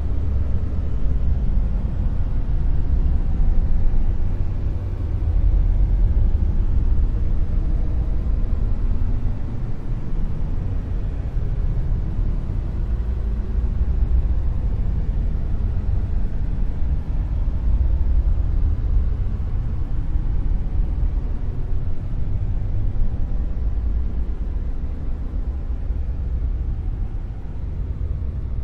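Dark noise: a steady, deep rumbling hiss with most of its weight in the low bass and little treble, swelling and easing slightly in level over several seconds.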